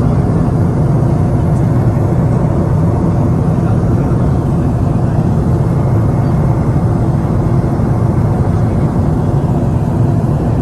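Steady low rumble of an airliner's cabin, engine and airflow noise running evenly with no change.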